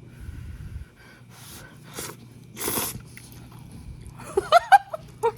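Slurping and eating of instant noodle soup: a few short hissy slurps, the longest about two and a half seconds in, followed near the end by a few short vocal sounds from the eater.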